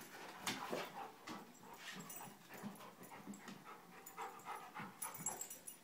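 Two dogs, a basset mix and a golden retriever puppy, play-fighting: faint, scattered short dog sounds and scuffles.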